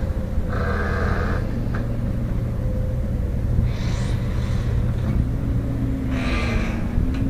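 Diesel engine of heavy earthmoving machinery running with a steady low rumble, its pitch rising and falling in the second half, with a few short noisy surges on top.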